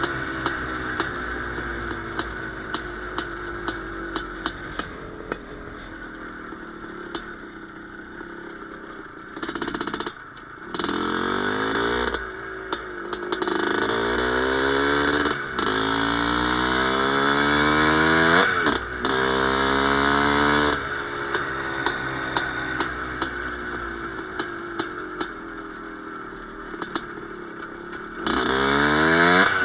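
Motorcycle with an Izh Planeta Sport single-cylinder two-stroke engine, running low at first, then revving up and down several times, its pitch rising and falling, with a last climb near the end.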